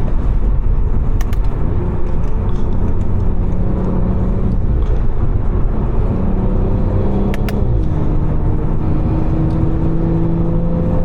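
Stage 2 tuned BMW 540i's B58 turbocharged inline-six running steadily under light load while driving, over low road and tyre rumble. The engine note drops about three-quarters of the way through. Two brief clicks come about a second in and near the end.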